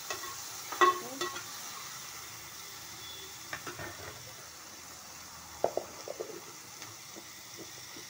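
Chopped tomatoes and onions sizzling in hot oil in a metal pan, with a spoon scraping and knocking against the pan as they are stirred, a sharp knock about a second in and a few more near the middle.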